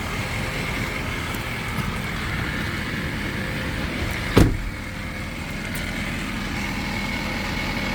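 Ford F550 truck engine running steadily at idle, with a single sharp thump about halfway through.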